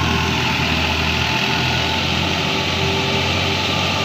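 Tractor-driven wheat thresher running steadily, with a constant low engine hum under loud, even machine noise.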